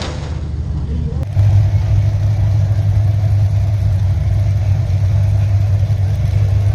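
Race car engine running at a steady speed, a loud, even low drone that sets in abruptly about a second in.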